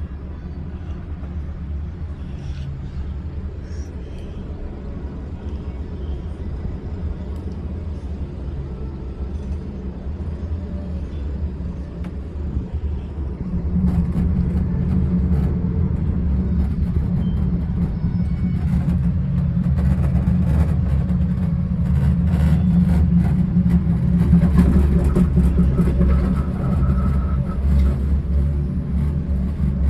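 Cable car cabin running along its haul rope: a steady low rumble that grows louder about halfway through, with light rattling clicks.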